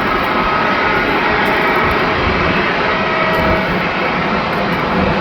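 Airbus A321neo's Pratt & Whitney geared turbofan engines running, a loud steady jet noise with faint whining tones threaded through it.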